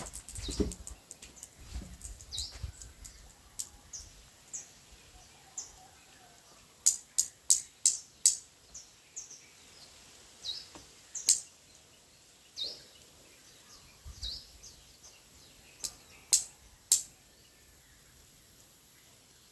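Small birds chirping: scattered short high chirps, with a quick run of louder sharp calls about seven to eight seconds in and two more near the end. A low rumble sits under the first couple of seconds.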